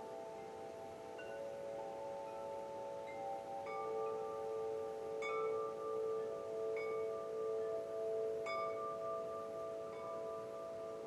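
Wind chimes ringing gently. A few metal tones are struck one after another, and their long ringing notes overlap and hang on.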